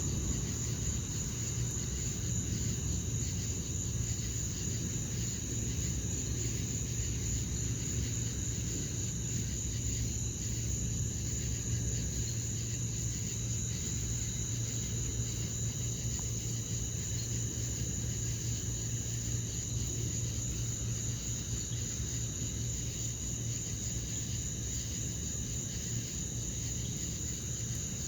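Crickets trilling in a steady, unbroken high-pitched chorus, over a low rumble.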